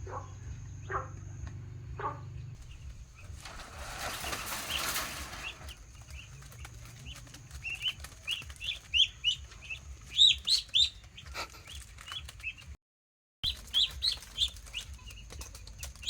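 Ducklings peeping, in quick runs of short high calls that grow busier and louder after about seven seconds. A few knocks come near the start, and a short rushing noise about four seconds in.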